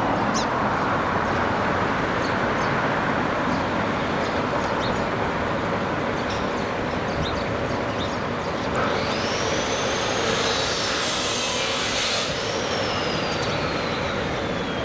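Steady city street traffic, with cars and trucks passing, a few small high chirps and clicks, and a high whine that rises and then slowly falls in the second half.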